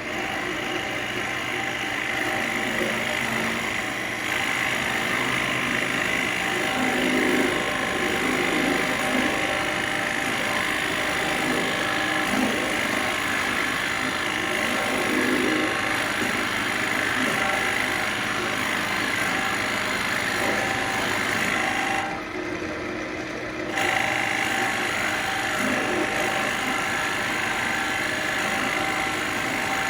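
Central Machinery wood lathe running, a steady motor hum under the rough sound of a cutter working into the spinning ambrosia maple bowl blank as its center is drilled and hollowed. The cutting noise breaks off for a moment about 22 seconds in, then resumes.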